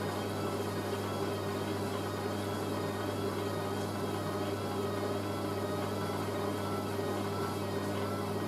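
Hoover A3060 washing machine running during its final spin stage: a steady low hum with a higher motor whine that wavers slowly up and down in pitch.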